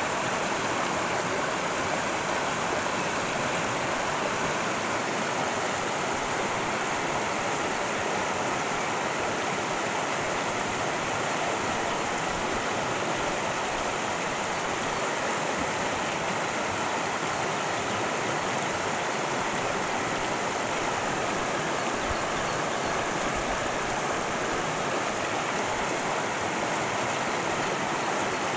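Cascading creek: water rushing steadily, with no breaks.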